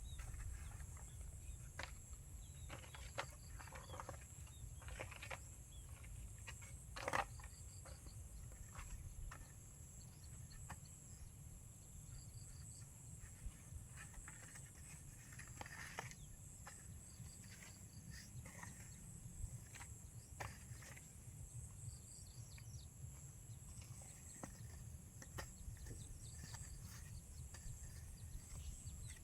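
Quiet outdoor ambience with a steady high-pitched insect drone and a few short chirps, over scattered light knocks and scrapes from handwork, with one sharper knock about seven seconds in.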